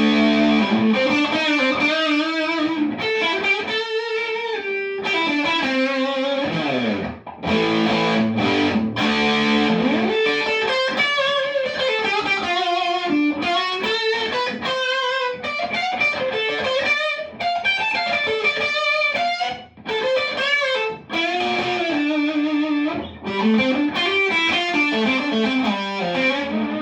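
Maple-neck Telecaster with Fralin split-blade pickups played through a homemade Big Muff fuzz pedal: distorted single-note lead lines with sustained notes and string bends, pausing briefly a few times.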